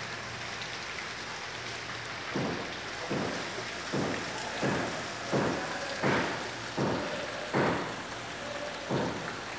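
Steady rain falling. From about two seconds in there is a regular run of thuds, about one every three-quarters of a second.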